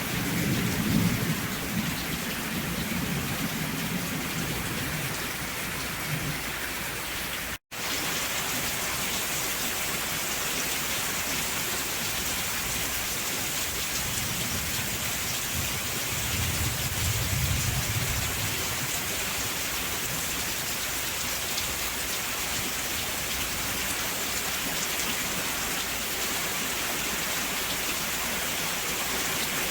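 Steady rain hissing, with low rolls of thunder during the first few seconds and again a little past the middle. The sound cuts out for an instant about a quarter of the way in.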